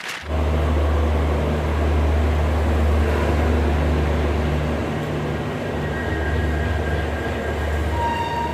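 Passenger train running, a steady low rumble and hum that starts suddenly just after the beginning, with faint high-pitched tones near the end.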